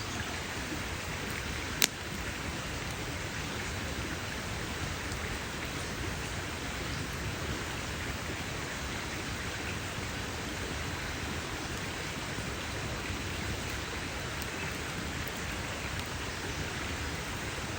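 Campfire burning with a steady, even hiss and crackle, and one sharp, loud pop about two seconds in.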